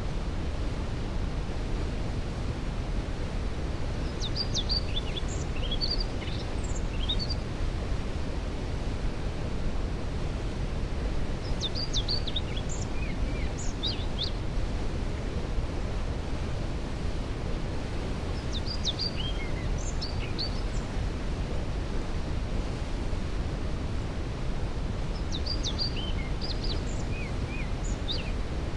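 Waterfall rushing steadily, a deep even rumble, with a songbird singing four short phrases of quick high chirps, about seven seconds apart.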